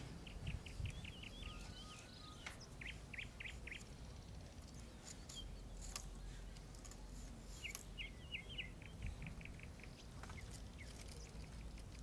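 A songbird singing faintly in rapid series of short, high chirping notes, once near the start and again about two-thirds through, over a quiet outdoor background with a few soft clicks.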